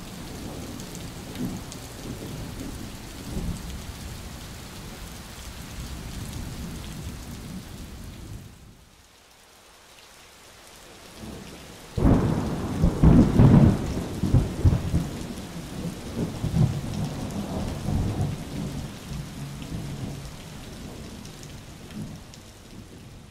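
Heavy rain pouring onto a tiled courtyard: a steady hiss of drops splashing on the flooded floor. It eases briefly about a third of the way in. About halfway it comes back suddenly much louder with a low rumbling, which slowly fades toward the end.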